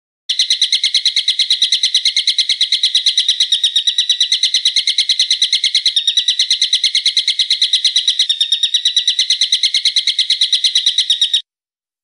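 A songbird's recorded call: a long, loud, fast trill of evenly repeated sharp high notes, held for about eleven seconds, then cutting off abruptly.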